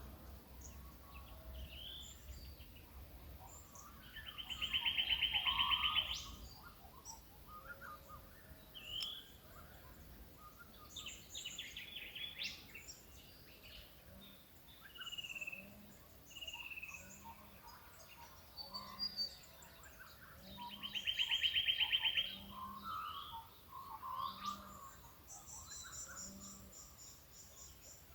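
Several birds calling in Australian bush: scattered chirps and short whistled notes, with two loud rapid trills about four and twenty seconds in. Through the latter half a faint low note repeats about once a second.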